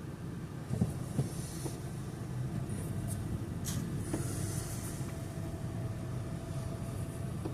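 Steady low rumble of a car heard from inside the cabin, with a couple of short knocks about a second in.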